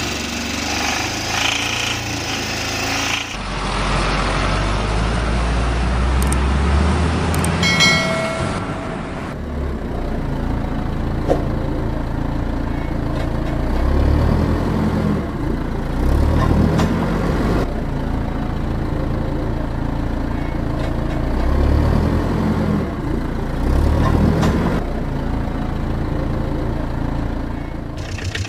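Heavy vehicle engine sound, running steadily and swelling in several surges like revving, with a short pitched beep about eight seconds in.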